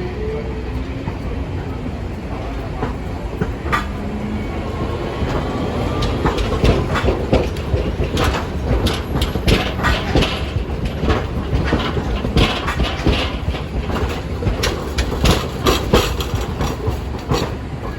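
Streetcar running on the tracks with a steady low rumble. From about six seconds in it is joined by a dense run of wheel clicks and clatter over the rail joints and points, which eases off near the end.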